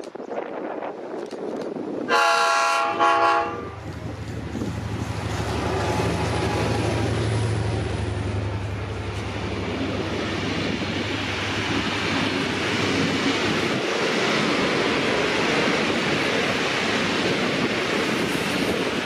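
Diesel locomotive sounding two short horn blasts, then its engine and the train rumbling past, the noise building over a few seconds and staying loud.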